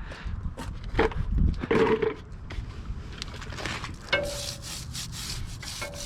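Motorcycle chain being scrubbed by hand: irregular rubbing and scraping strokes with sharp knocks, and a couple of brief squeaks in the second half.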